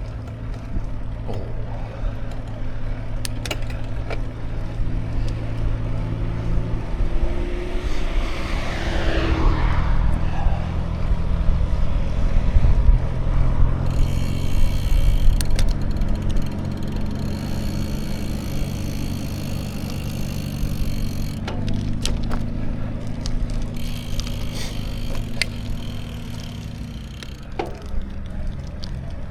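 A motor vehicle's engine hum that holds steady, its pitch stepping up or down a couple of times, over road and wind noise. About eight seconds in, a falling whoosh sweeps from high to low, like a vehicle going by.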